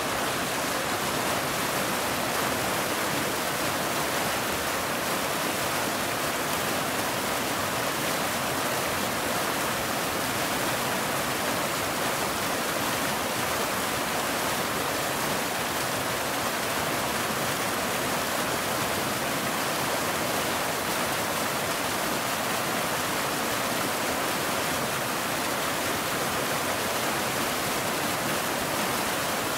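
Waterfall: a steady, unbroken rush of falling water, full of hiss.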